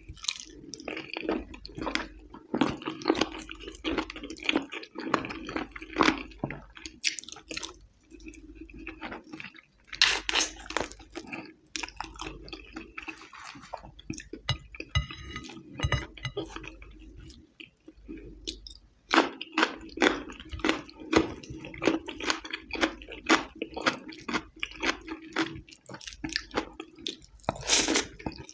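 Close-miked eating by hand: wet chewing and lip smacks as soft oily rice and saucy chicken are eaten, with the squish of food pressed in the fingers. Loud, dense smacks come in clusters, with quieter spells of chewing between.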